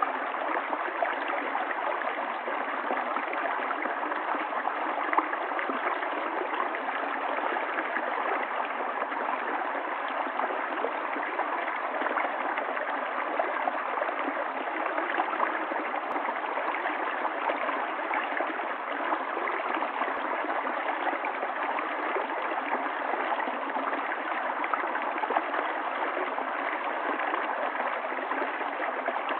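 Stream water running steadily: a continuous, even rush of flowing water with fine splashy flicker, its high treble cut off.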